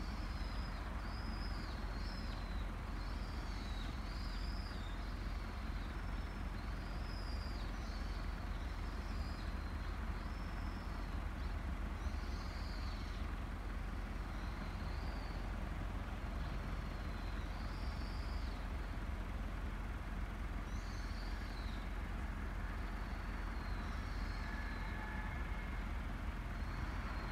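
Small birds chirping, short high calls every second or two, over a steady low outdoor rumble.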